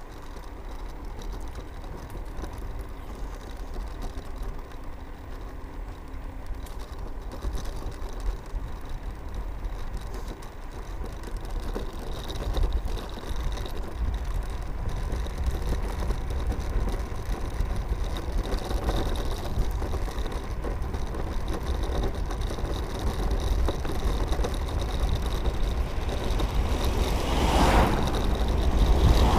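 Riding noise from a Mercane electric scooter climbing a steep road: low wind and road rumble on the microphone, with a faint steady high whine. The rush builds gradually and swells sharply near the end.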